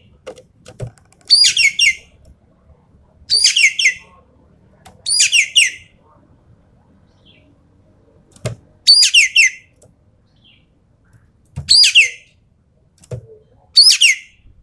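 Ekek keling giving loud 'tembakan' call bursts, six in all, every two to three seconds. Each burst is a quick run of sharp, high, downward-slurred notes. A few soft knocks fall between the bursts.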